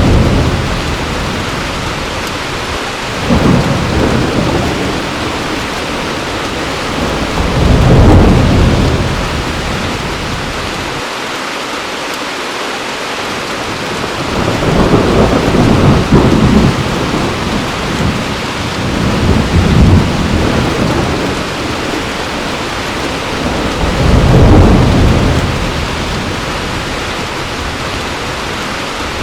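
Heavy rain falling steadily, with about six low rolls of thunder that each swell and fade over a second or more.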